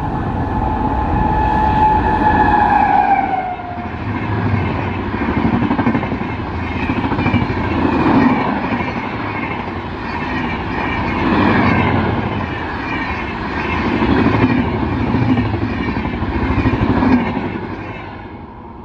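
Express train passing at speed. Its horn sounds first and drops in pitch as the locomotive goes by, then the coaches rush past with a regularly swelling wheel-and-rail clatter that fades away near the end.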